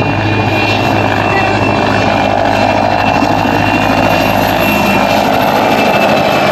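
PZL Kania helicopter's twin turboshaft engines and rotor running, a loud steady noise with a thin high turbine whine over it.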